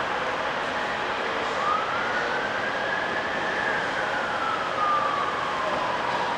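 Coaches rolling past with a steady rumble of wheels on rail. Over it a siren wails, rising slowly for about two seconds and then falling away.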